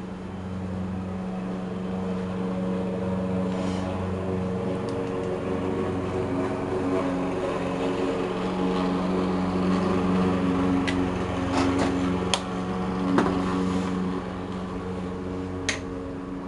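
A steady low mechanical hum of several held tones, slowly growing louder and then easing off, with a few light clicks and taps in the second half.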